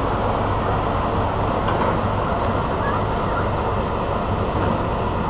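Shunting locomotive running, a steady low rumble with a constant hum, and a brief high hiss about four and a half seconds in.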